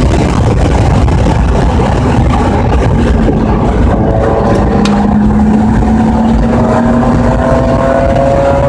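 Race car's engine pulling under load, heard from inside the cabin over a heavy rumble of wind and road noise; its pitch climbs slowly through the second half as the car accelerates onto the straight.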